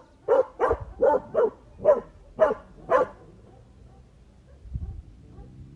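A dog barking, a quick run of about seven barks over the first three seconds, then stopping; a dull low thump follows near the end.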